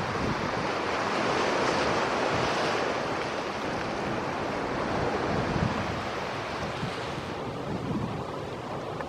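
Boeing 777-300ER's GE90 turbofans heard from the ground as a broad, steady jet noise as the airliner climbs away after take-off. It slowly fades, and its higher part drops away near the end, with wind buffeting the microphone.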